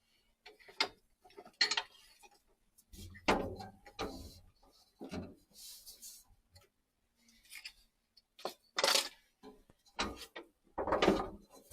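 Irregular clicks, taps and knocks of boiler parts being handled and fitted by hand as the bypass goes into the boiler's hydraulic block, with a short scraping rustle about five seconds in.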